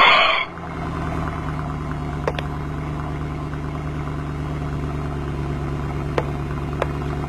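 Car engine idling steadily, with a few faint clicks. Music cuts off just at the start.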